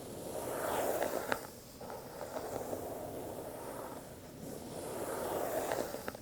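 Cardboard Apple product box being handled: a soft, swelling rubbing sound as the snug lid slides against the box, with a few light clicks about a second in and again near the end.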